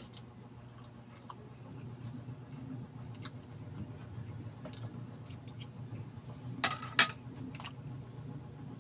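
Close-up mouth sounds of a person eating balut: small wet clicks and squishes of chewing. A metal spoon clinks twice against a glass dish about seven seconds in, over a faint steady low hum.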